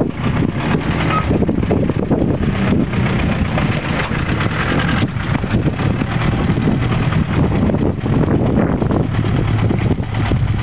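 Toyota Land Cruiser engine idling steadily.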